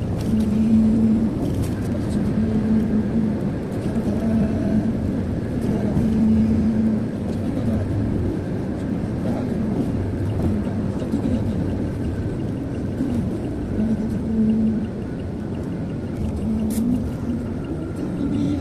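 A car driving along a highway: a steady low rumble of engine and road noise, with a hum that swells and fades every few seconds.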